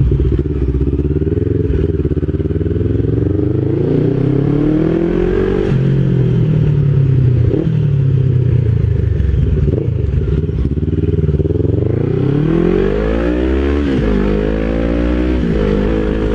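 Motorcycle engine accelerating under way, its pitch climbing through each gear and dropping sharply at a shift about six seconds in and again about two seconds before the end.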